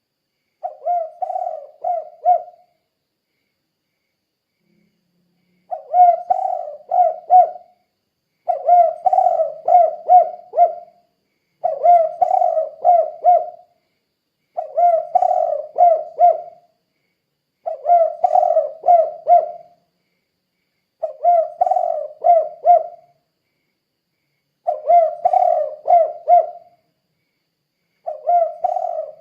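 Spotted dove (tekukur) cooing its 'kuk 2' song: phrases of four or five quick low coos, each about two seconds long, repeated about every three seconds, with a longer pause a couple of seconds in.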